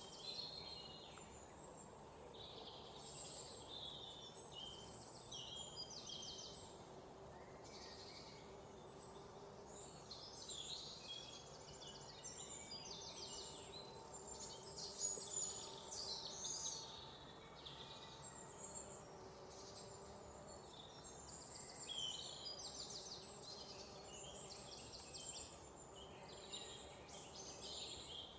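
Several songbirds chirping and trilling at once, high-pitched and overlapping throughout, over a faint steady background hiss.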